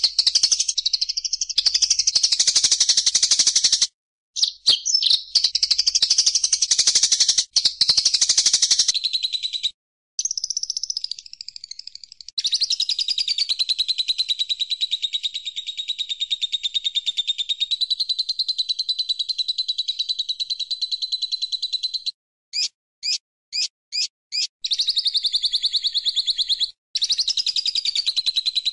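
Songbird singing a continuous, rapid, high-pitched trilling song broken by a few short gaps. About 22 seconds in, the song gives way to five quick separate chirps before the trill resumes.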